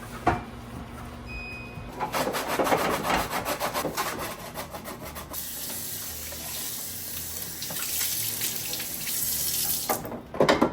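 Scrubbing at a sink, a few fast strokes a second for about three seconds, then a tap running steadily for about five seconds. A single knock comes just after the start and two sharp knocks come near the end.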